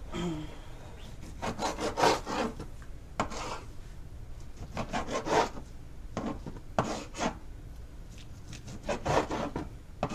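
Kitchen knife sawing through raw boneless chicken, in several short bursts of rasping back-and-forth strokes.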